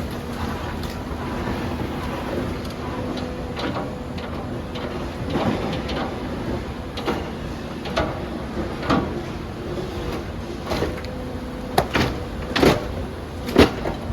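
Demolition excavator engine running steadily, with irregular knocks and crashes of debris being broken and dropped, louder and more frequent near the end.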